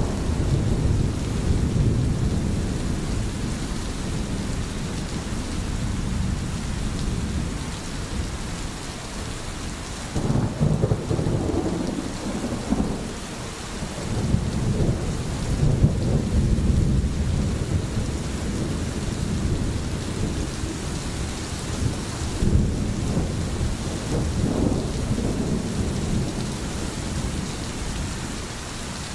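Steady rain falling, with low rolling thunder rumbling underneath and swelling several times.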